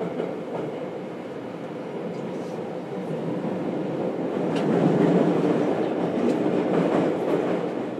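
Running noise heard inside a JR Kyushu 303 series electric train's motor car: a steady rumble of wheels on rail with a few faint clicks. It swells louder about halfway through, then eases off.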